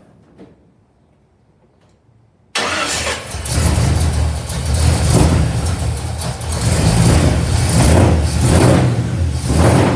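Supercharged 355 small-block V8 with 3-inch dual exhaust through Flowmaster FX mufflers fires up suddenly about two and a half seconds in. It then runs, its level rising and falling.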